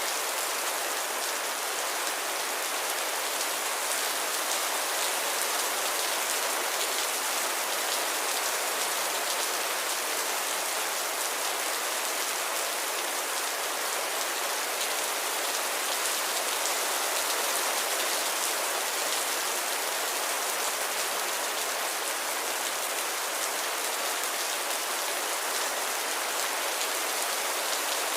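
Steady light rain falling, an even hiss with fine patter of drops and no thunder.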